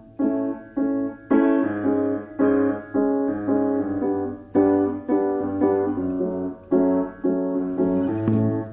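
Background music: a piano playing repeated chords, each struck sharply and fading before the next, roughly one a second.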